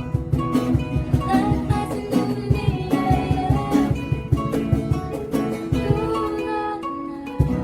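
Music: an instrumental passage of plucked acoustic guitar or ukulele notes in a steady rhythm, with no singing.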